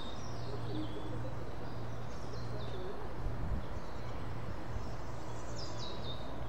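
Small birds chirping and trilling in short, falling phrases, over a steady low hum.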